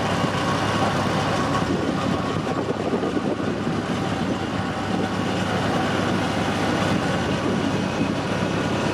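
Tourist train running steadily along the track, heard from aboard: a continuous rumble of the locomotive and the cars rolling on the rails.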